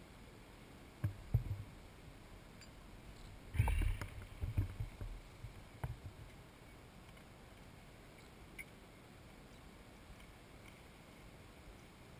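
A few scattered short knocks and bumps over a quiet background, with a cluster of them a few seconds in and nothing after about halfway; no engine is running.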